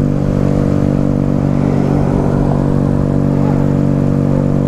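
Motorcycle engine running at a steady speed, its pitch holding level with no revving.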